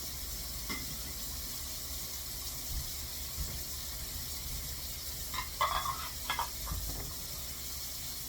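Kitchen tap running steadily, filling a pet's water bowl, with a few clinks a little over halfway through.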